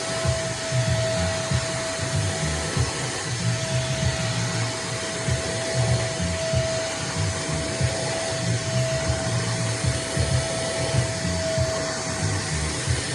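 Nunix wet & dry vacuum cleaner running steadily at full power: a constant motor whine over loud rushing air with an uneven low rumble.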